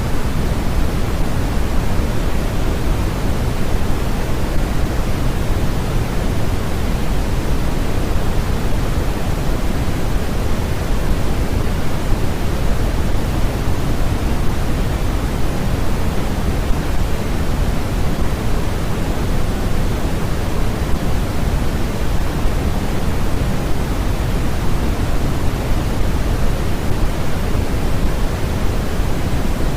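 Steady, unbroken synthetic noise, a hiss heavier in the bass than in the treble, like pink noise, with no tones or changes.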